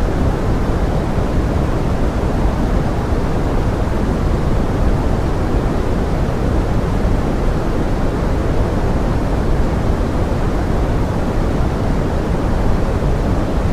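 Steady pink noise: a dense, even hiss weighted toward the low end, holding level without change.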